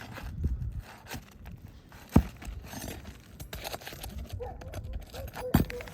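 Nails being worked out of an asphalt roof shingle: scraping and rustling of tools and shingle, with two sharp knocks, one about two seconds in and one near the end, and a faint squeak just before the second.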